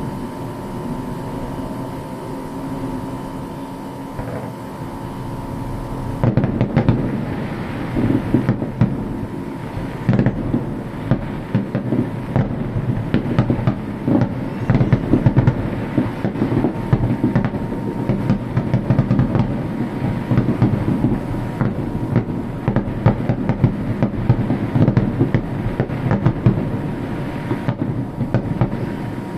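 Fireworks going off in a dense barrage: a rapid, continuous string of bangs and crackles starting about six seconds in. Before that, a steady rumble with a faint hum.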